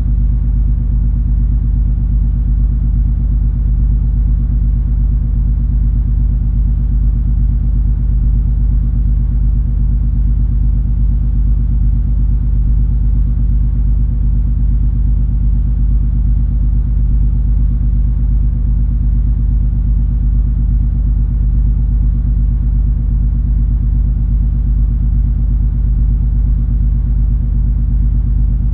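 Steady deep rumble and drone of the cruise ferry MS Color Fantasy under way, with a constant low engine hum underneath and no change in pace or pitch.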